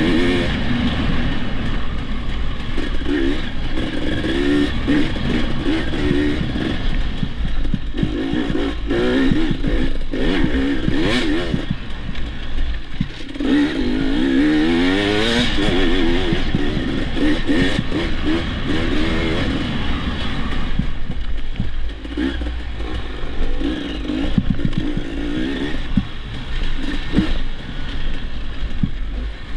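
Dirt bike engine revving up and down while being ridden, with short knocks and clatter from the bike over rough ground; the revs climb hard about fourteen seconds in.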